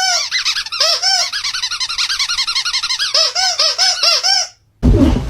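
A rapid run of high-pitched squeaks, each rising and falling in pitch, about five a second, cutting off abruptly about four and a half seconds in. Just before the end a louder, rougher noise starts.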